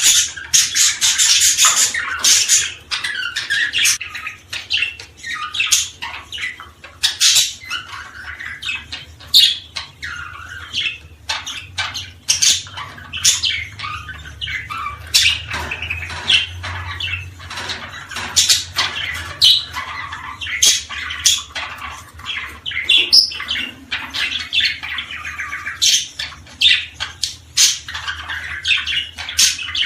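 Small songbirds chirping and calling without a break, many short sharp chirps and squawks overlapping one another.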